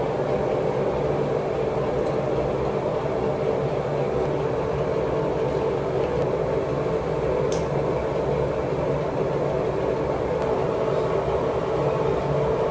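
A steady mechanical hum holding a constant pitch and level, with a faint click about seven and a half seconds in.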